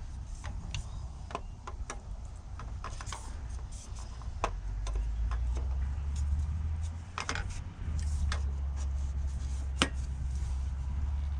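Irregular light taps and clicks of an engine piston being tapped down through a ring compressor with the butt end of a tool handle, the rings catching so that the piston will not slide into the bore. A steady low rumble lies underneath.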